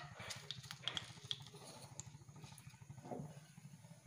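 Cashew nuts frying in a pan of ghee and oil: a faint sizzle with scattered small pops and ticks, over a low steady hum.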